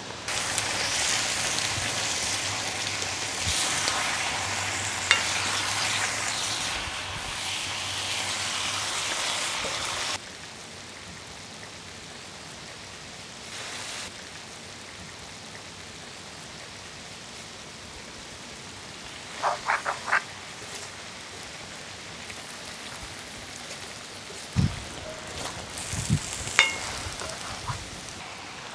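Chicken and spices sizzling in a cast-iron kadai, loud for about the first ten seconds and then dropping suddenly to a quieter sizzle. A few short knocks of a ladle against the pan come in the second half, as the masala is stirred through.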